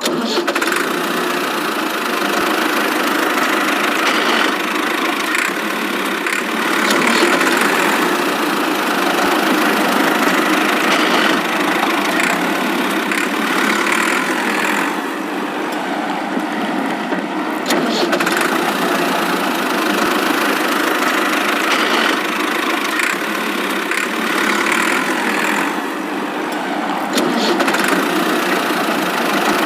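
Engine running steadily like an idling tractor, starting abruptly. It has no deep bass and swells a little now and then.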